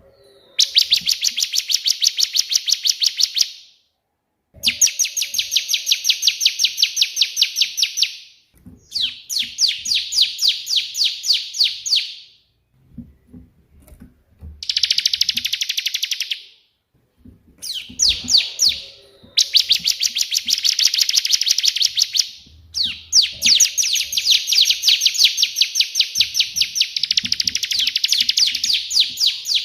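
Bar-winged prinia (ciblek) singing loudly in rapid, machine-gun-like runs of repeated high, sharp notes, the 'tembakan' (shot) style of the white prinia. Each run lasts a few seconds, with brief pauses between them.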